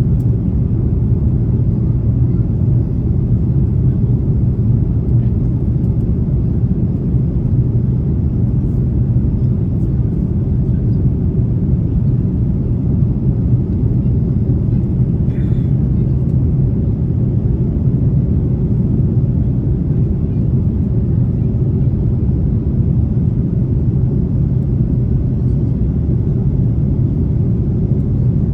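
Airbus A330 cabin noise on approach: a steady low rumble of the engines and airflow with no change in level.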